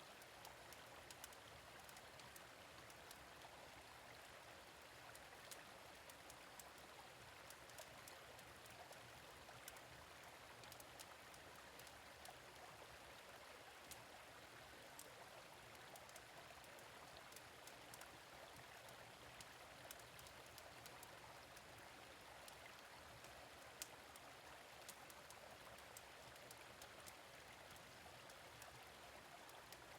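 Faint steady running of a gentle stream, with small sharp crackles scattered through it.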